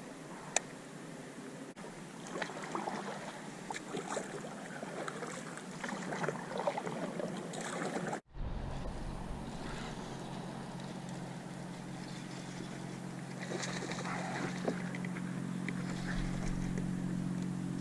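Small water splashes and knocks of gear on a fishing kayak. After a brief dropout about eight seconds in, a steady low drone runs underneath.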